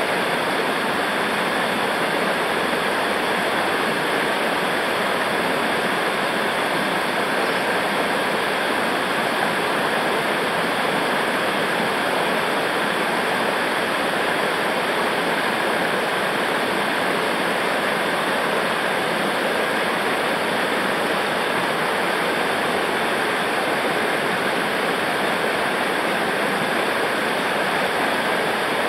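Rushing river water, as at rapids or a small waterfall: a steady, unbroken roar of flowing water.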